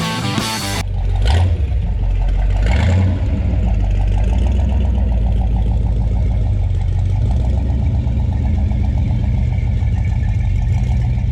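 Classic car engine idling with a loud, low, steady note, blipped up in revs twice in the first few seconds.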